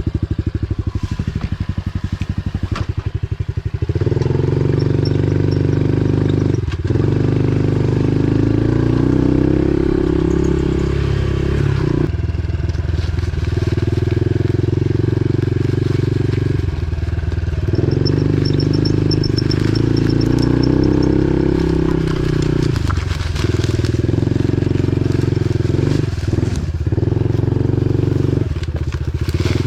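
Pit bike engine being ridden. It runs slowly with distinct firing pulses for about four seconds, then is opened up to a steady higher-revving drone, dropping off the throttle briefly about six times.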